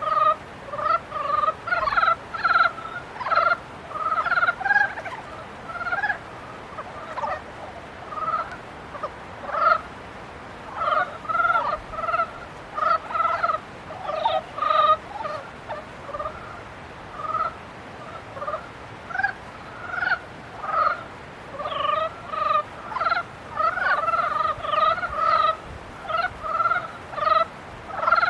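A breeding chorus of many frogs calling at once: short, repeated croaking notes that overlap one another throughout.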